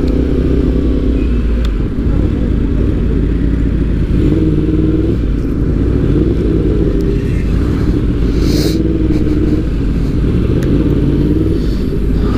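Motorcycle engine running, its pitch gently rising and falling, over a heavy low rumble. A brief hiss about two-thirds of the way through.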